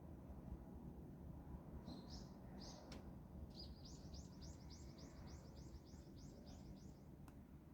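A small songbird gives two high chirps, then a trill of about a dozen quick, evenly repeated high notes, about four a second, over a faint low background hum. Two faint clicks can be heard.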